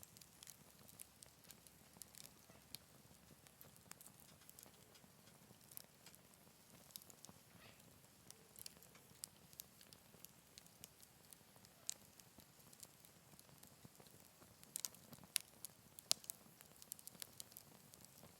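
Wood fire crackling in a Picogrill 398 fire stand: faint, irregular pops and snaps of burning wood, with a cluster of sharper pops about fifteen to sixteen seconds in.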